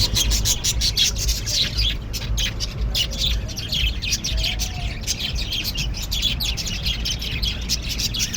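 Many small birds chirping at once, a dense, continuous chatter of short, rapid, overlapping high chirps, over a steady low rumble.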